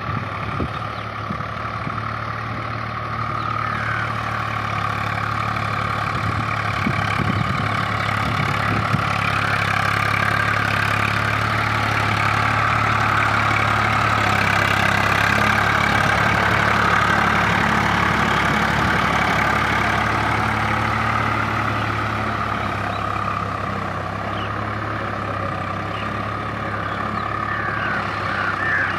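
Tractor engine running steadily, growing louder through the middle and easing off again toward the end.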